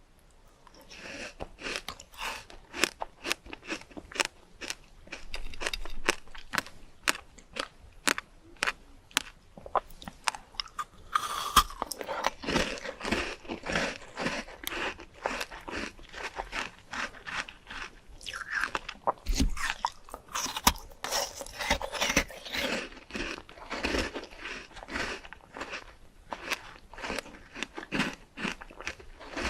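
Close-miked eating of crunchy fresh fruit: a dense run of sharp crunching bites and chewing, starting about a second in.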